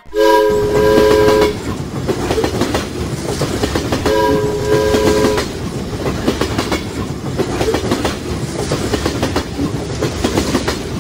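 Railway train sound effect: the horn sounds twice, each blast about a second and a half long and some four seconds apart, over the steady clatter of wheels on rails.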